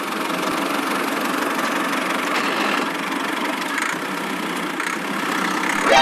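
Small motor of a miniature tractor running steadily, with a busy mechanical whirr and no deep bass.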